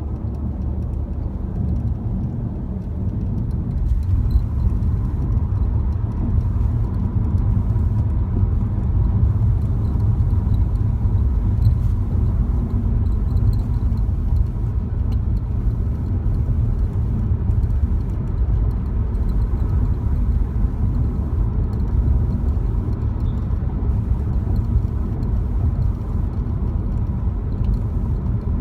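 BMW F30 3 Series car running with a steady low rumble and a faint, steady high tone above it from a few seconds in: the strange, annoying noise the owner is trying to capture.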